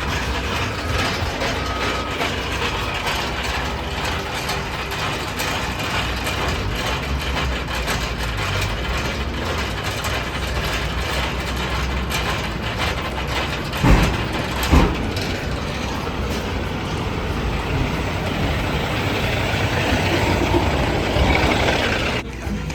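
Semi truck's diesel engine idling while the trailer's landing gear is cranked down by hand, with mechanical clicking and grinding. Two loud metal clunks come less than a second apart about two-thirds of the way through.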